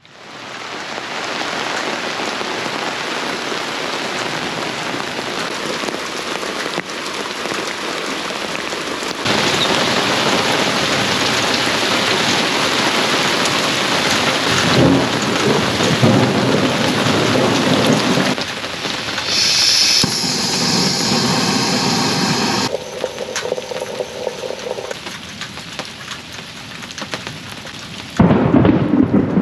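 Heavy rain pouring down in a thunderstorm, with thunder rumbling. The rain sound shifts abruptly several times, louder from about nine seconds in.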